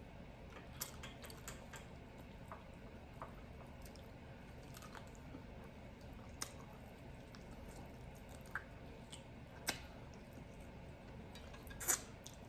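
A person chewing food close to the microphone: scattered wet mouth clicks and smacks, with a louder cluster of clicks near the end.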